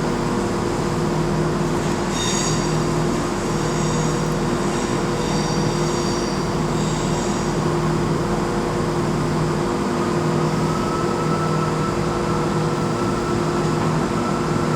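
A CrossCountry Class 170 Turbostar diesel multiple unit running into the platform, its diesel engines giving a steady drone. Brief high-pitched squeals come about two seconds and about six seconds in.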